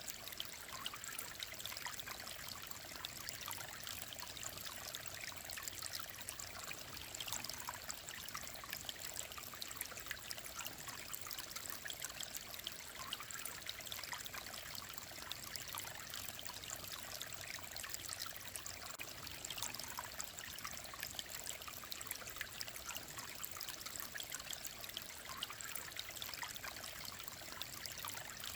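Shallow mountain stream running steadily over stones, a continuous babble with many small trickles and splashes.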